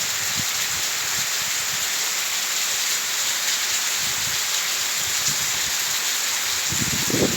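Heavy rain falling, a steady hiss of downpour, with a few low thumps near the end.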